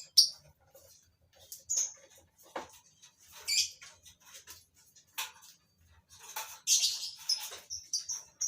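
Lovebirds chirping: short, high, irregular chirps and squeaks, with a busier cluster of calls about six to eight seconds in.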